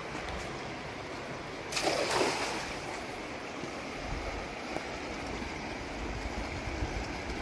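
Fast river water rushing steadily, with a brief louder splash-like burst of noise about two seconds in and some low wind rumble on the microphone later.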